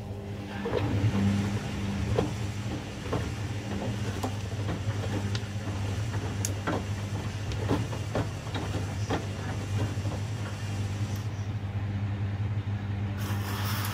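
Washing machine running mid-cycle: a steady motor hum with irregular knocks and splashes from the turning drum.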